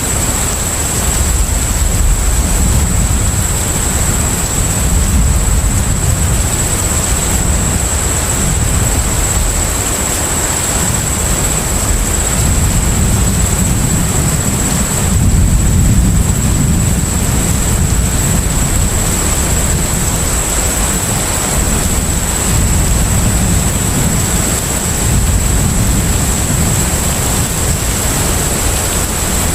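Container ship under way at sea: a steady low engine rumble under a broad wash of sea and wind noise, with a thin steady high whine throughout. The level swells and eases slowly, most at about sixteen seconds in.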